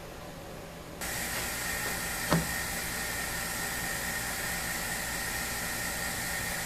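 Vacuum supply for a CNC router's vacuum fixture switching on about a second in and running steadily, a rushing noise with a faint high whine, as it pulls an MDF test piece down to the plate. A single knock a little later.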